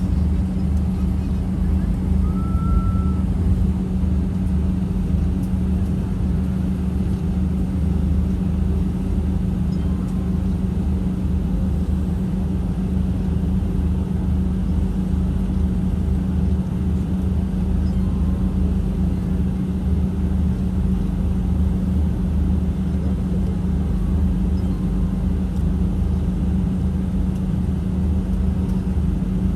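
Airliner cabin noise before takeoff: a steady jet-engine drone with a low rumble, as the plane taxis or waits. A brief faint tone sounds about two seconds in.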